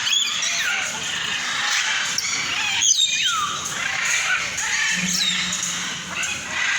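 Many small aviary birds chirping and calling over one another in a dense chorus, with a sharp click about three seconds in.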